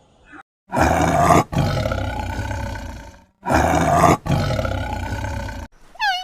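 A large wild animal roaring twice, each roar a loud burst that trails off over about two seconds.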